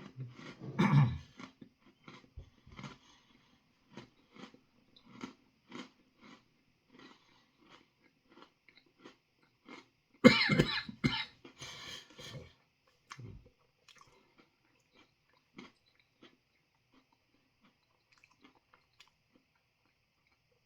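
A man chewing freeze-dried ice cream with small crisp crunches, coughing and clearing his throat about a second in and again, loudest, around ten to twelve seconds in. The coughing is from chilli-pepper dust caught in the back of his throat.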